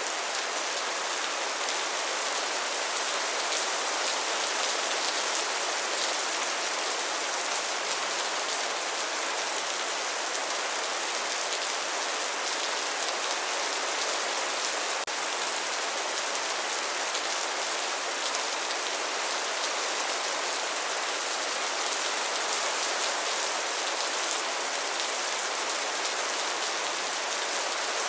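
Steady rain falling, an even hiss of many drops on a surface. A single faint click about halfway through.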